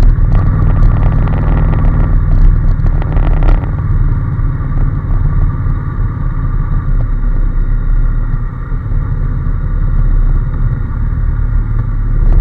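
Honda NC750S parallel-twin engine running steadily under way on the road, with a light clatter over the first few seconds.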